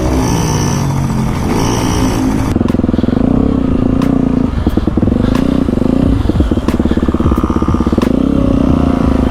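Motorcycle engine running while riding at low speed, its pitch rising and falling for the first couple of seconds, then holding steadier and louder, with scattered sharp clicks.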